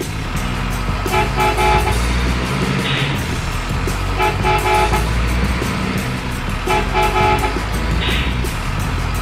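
Truck horn sounding three short blasts about two and a half seconds apart, over a steady low truck engine rumble.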